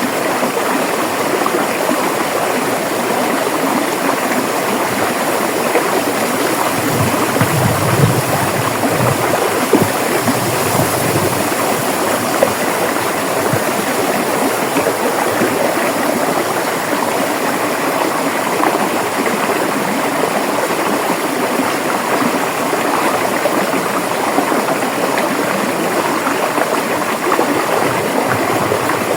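River water rushing and babbling over rocks in a steady, full wash, with a brief deeper low swell between about seven and ten seconds in.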